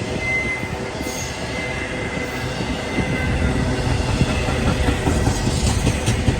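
Train rolling past with a steady rumble of wheels on rail, scattered clacks and a thin, high wheel squeal.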